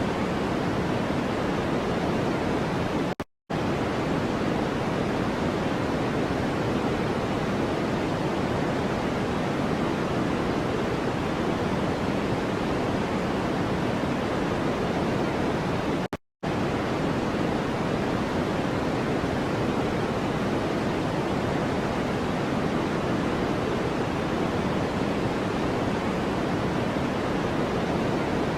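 Steady white-noise track, a hiss weighted toward the low end. It cuts out to silence for a fraction of a second twice, about 3 and 16 seconds in, the gaps coming about every 13 seconds.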